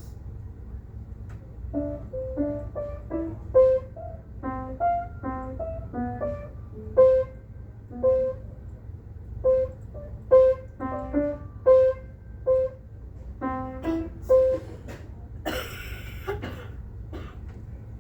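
A simple tune played one note at a time on a keyboard instrument, with separate struck notes that die away quickly, over a steady low hum. A short rustling clatter follows near the end.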